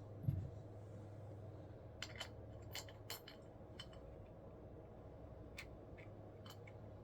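A dull thump, then a scatter of light metallic clicks and clinks, like small parts or tools being handled and set down on a workbench, over a steady low hum.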